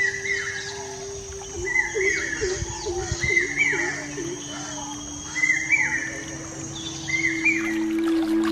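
A bird calling the same short, down-curving phrase about five times, roughly every one and a half to two seconds. Behind it are a steady high-pitched hiss and a steady low hum.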